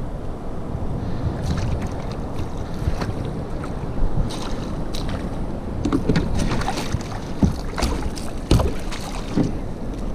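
Wind buffeting the microphone on a sea kayak, with a scatter of sharp knocks and clatter against the kayak from about four seconds in, the loudest near the end.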